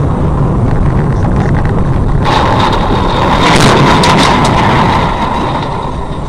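Motor vehicle on the move: a loud, steady rumble of engine and road noise, with a harsher hissing noise coming in about two seconds in and fading near the end.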